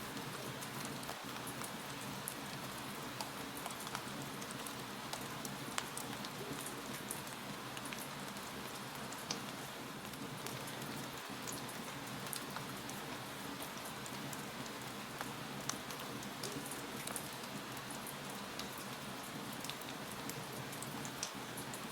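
Wood fire crackling in a fireplace: a steady hiss with frequent small sharp pops and snaps scattered throughout.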